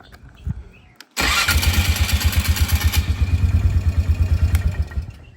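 Polaris ATV engine starting about a second in on a new ignition switch, then running with an even, fast pulsing beat. It shuts off just before the end.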